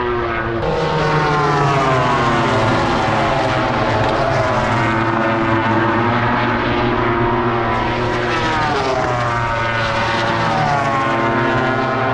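MotoGP race motorcycle engines running at high revs, their pitch sliding down and back up several times as the bikes change speed.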